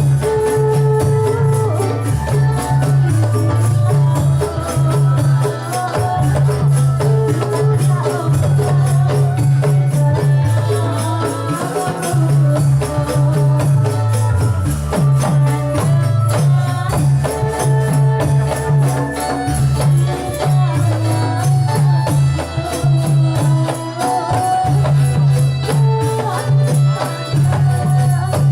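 Instrumental Dolalak folk music: a pulsing bass line and a melody over steady jingling percussion like tambourines.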